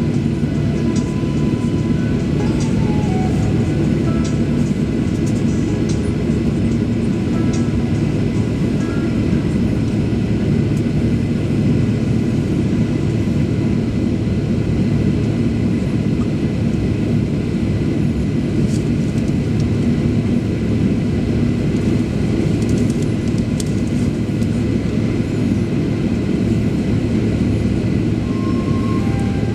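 Steady cabin noise inside a Boeing 737 Next Generation with its CFM56 engines running: a constant low hum with a thin high tone above it, holding the same level throughout.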